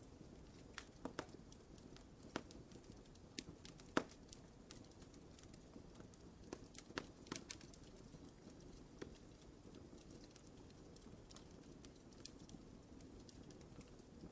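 Fire in a fireplace crackling faintly, with irregular sharp pops and snaps over a soft low hiss. The loudest pop comes about four seconds in, and a small cluster follows around seven seconds.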